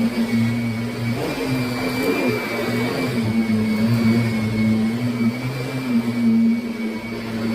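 Kirby Sentria upright vacuum cleaner running while vacuuming: a steady motor hum with a high whine, its level wavering slightly as it is pushed over the floor.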